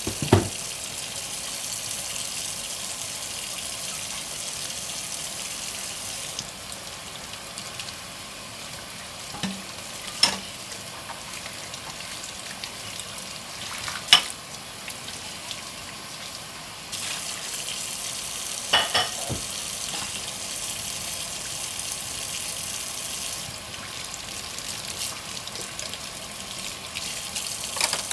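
Washing dishes by hand at a sink: a steady high hiss of water and scrubbing that drops lower for about ten seconds and then picks up again, with a few sharp clinks of dishes knocking together.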